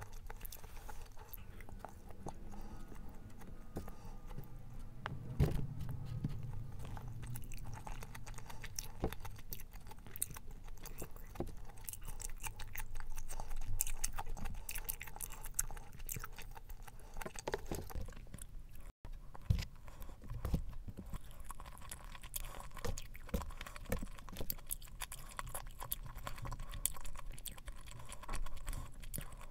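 Close-up chewing with the mouth closed, irregular wet mouth clicks and squelches.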